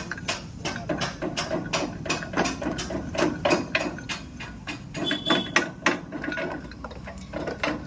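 Metal clicks and knocks repeating irregularly, a few a second, from hand work on a JD rotavator's side gear drive.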